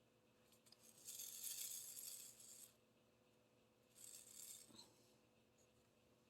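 Small resin diamond-painting drills rattling in a plastic drill tray, in two bursts: a longer one about a second in and a shorter one about four seconds in.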